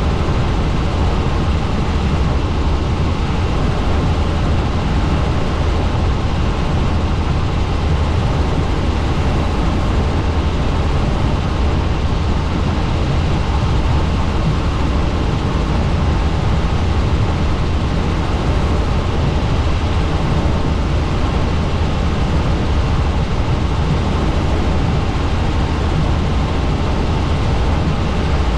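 Helicopter in flight: a loud, steady drone of rotor and engine noise, heaviest in the low end.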